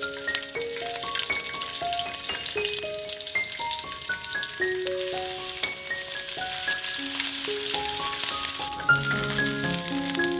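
Onion slices, shrimp and pork belly sizzling in hot oil in a skillet, the sizzle growing brighter about halfway as the shrimp and pork go in. A light tune of single held notes plays over it.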